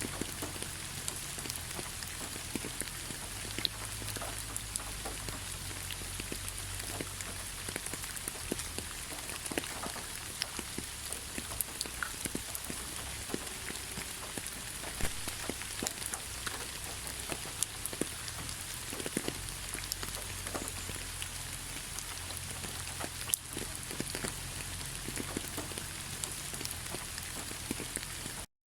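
Heavy rain falling: a steady hiss dotted with many sharp individual drop impacts. It breaks off for a split second near the end.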